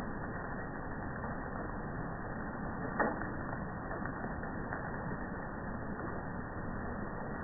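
Steady rain falling, an even hiss, with one sharp tap about three seconds in and a few fainter ticks after it.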